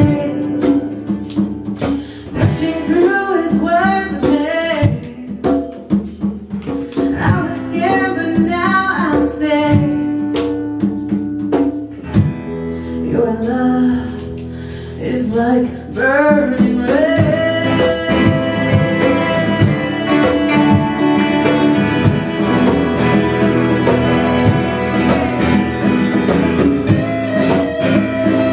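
Live band playing a song, with guitar and a sliding melody line over a steady beat of light percussion; a little over halfway through it settles into long held chords.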